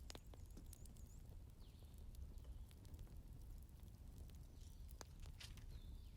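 Wood fire crackling faintly: scattered sharp pops and snaps over a low, steady rumble.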